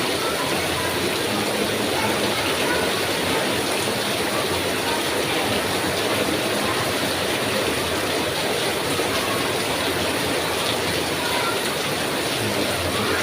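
Heavy rain falling steadily, a dense, even hiss that holds at one level throughout.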